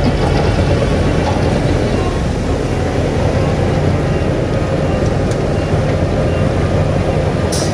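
Bulldozer's diesel engine running steadily under load, with a few faint clanks and a brief high hiss near the end.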